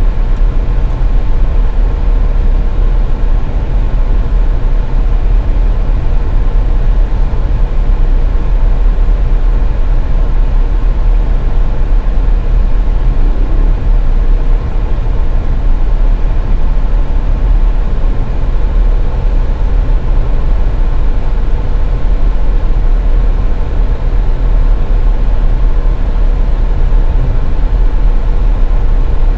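Car driving: a steady low rumble of road and engine noise, with a faint steady hum above it.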